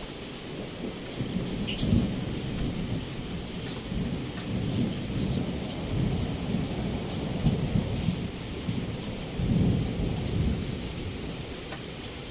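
Heavy rain pouring steadily against a window, with low rolling thunder that swells several times, loudest about two seconds in and again near ten seconds.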